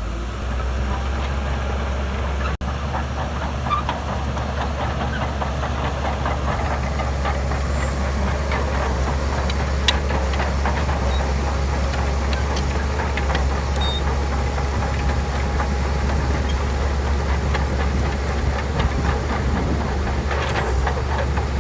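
Crawler bulldozer's diesel engine running steadily under load with a constant low drone, and its steel tracks clanking and clicking as it works the sand.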